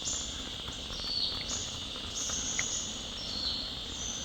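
Forest insect chorus: a steady high-pitched buzzing drone, with several higher insect trills layered over it that start and stop abruptly every second or so.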